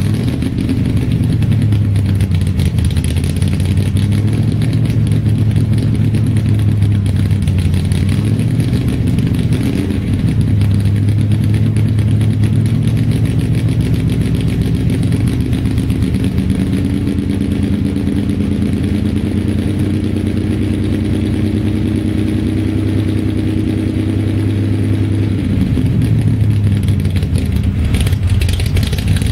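A/FX drag car's engine idling while it warms up from a cold start. It runs steadily, the idle creeping up in the second half and dropping back a few seconds before the end.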